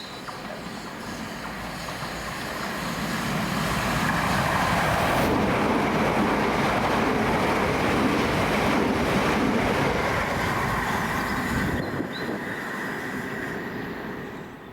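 A train passing through the station at speed. The rush of wheels on rail builds over a few seconds, holds loud with a steady high whine, then falls away near the end.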